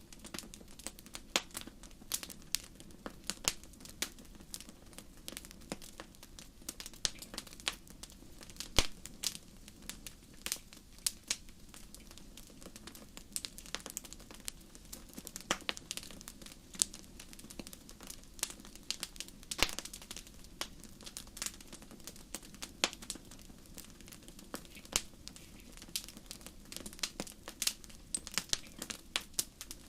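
Fire crackling: irregular sharp pops and snaps, scattered at random, over a low steady rumble.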